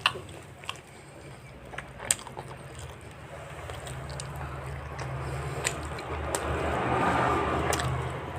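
Close-miked eating of fried chicken: sharp mouth clicks and chewing. The chewing noise swells about five seconds in and is loudest near the end, over a steady low hum.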